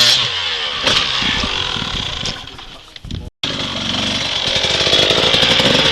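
Dirt bike engine running and revving, fading a little about two and a half seconds in, cutting out abruptly, then building back up louder.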